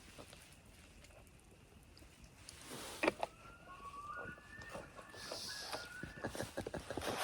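Common loon wailing: a single long call that rises in steps and then holds, starting a little past the middle. A few sharp knocks and a brief hiss come close by.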